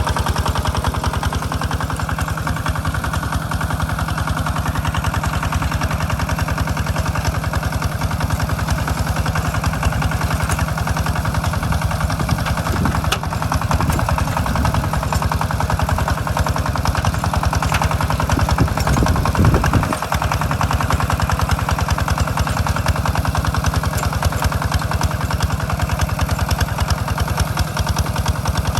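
Hinota walking tractor's engine running steadily under load while plowing a rice field, with a rapid, even chugging of its firing pulses.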